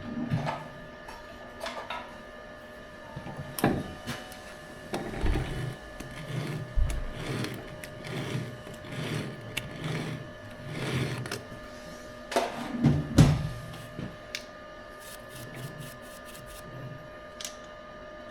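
A machine tool running with a steady faint whine, over irregular knocks and clatter of metal parts and tools being handled.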